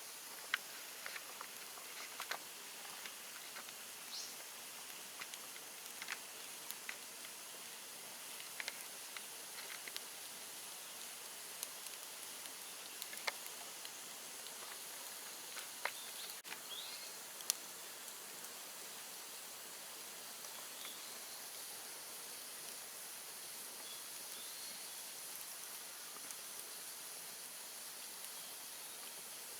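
Open bonfire of cut bamboo and brush crackling: scattered small sharp pops and snaps at irregular moments over a steady soft hiss.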